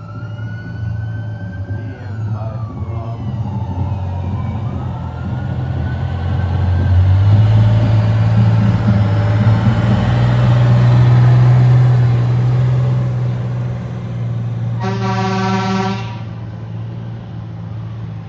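A siren-equipped holiday cheer truck passing close: a siren wails up and down early on, the heavy engine rumble swells loudest through the middle, and a horn blast of about a second sounds near the end.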